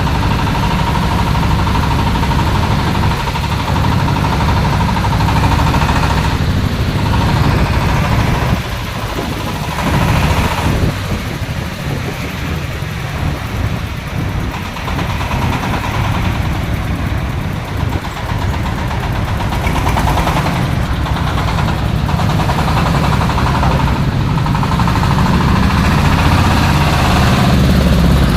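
A 26 HP Dong Feng diesel engine running a corn sheller, a steady loud rumble with a whine above it. The rumble eases for several seconds about nine seconds in, then builds back up.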